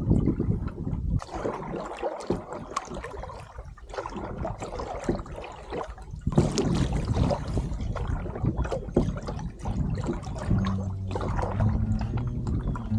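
Canoe being paddled on choppy water in strong wind: irregular paddle splashes and water slapping against the hull. A low steady tone of background music comes in near the end.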